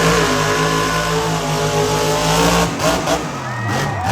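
Monster truck engine revved up and held at high, steady revs for about two and a half seconds, then blipped in several short revs near the end.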